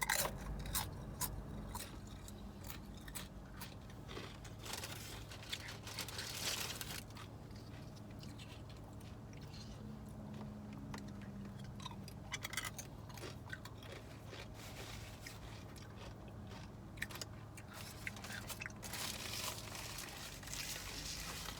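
Close-miked mouth sounds of someone eating: chewing and crunching food, with scattered crisp clicks and two longer crunchy stretches, about five seconds in and near the end, over a low steady hum.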